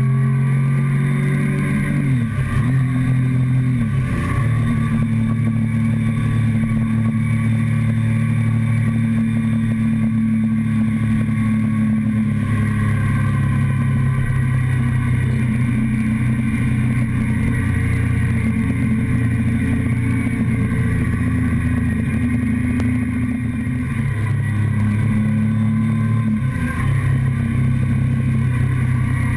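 Motorcycle engine running steadily under way, heard from a camera on the fuel tank. The engine note dips briefly and recovers about two and four seconds in and again near the end.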